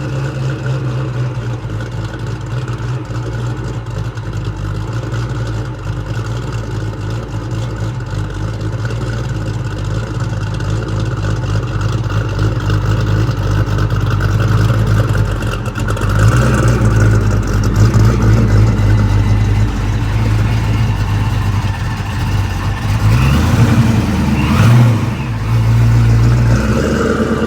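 Vortech V1-supercharged Ford 5.0 small-block V8 with an X-303 cam and Mac Pro chamber exhaust, running at idle. It gets louder about halfway through, and near the end it is revved up and down a couple of times.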